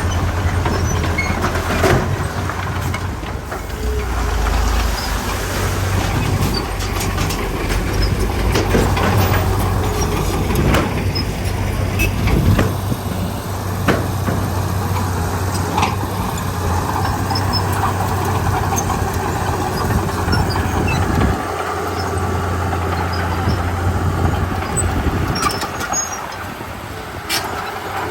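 Heavy diesel machinery at work, the engine running steadily with its low hum shifting in level now and then, and scattered sharp metallic clanks and knocks throughout.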